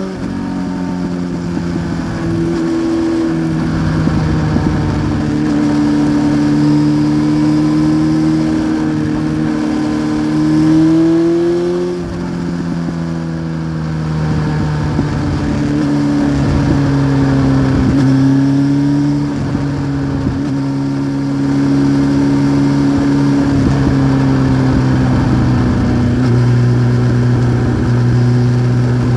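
1993 Honda CBR900RR Fireblade's inline-four engine running under way through a Remus aftermarket exhaust. Its pitch holds and climbs slowly under throttle, then drops in steps about twelve, nineteen and twenty-six seconds in.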